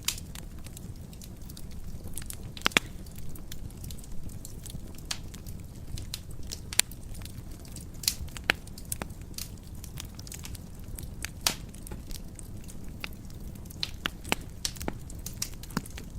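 Wood fire burning in a fireplace: a steady low rumble under irregular sharp crackles and pops, a few of them louder than the rest.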